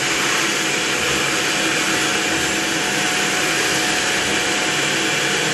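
Steady rushing hiss of water being forced through a rain shower head on a pressure-testing rig, with a faint steady tone underneath from the rig's pump.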